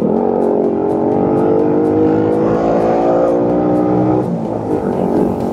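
A motor vehicle engine accelerating, its pitch rising steadily for about four seconds, then dropping off as it eases.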